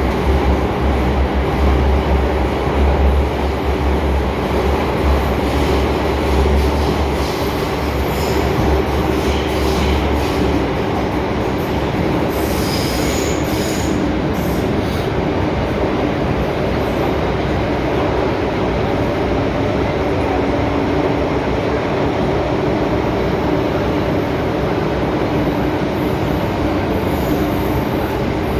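MTR M-Train electric multiple unit running along the line, heard from aboard. Steady running noise with a strong low hum that stops about ten seconds in, and a few brief high wheel squeals around halfway.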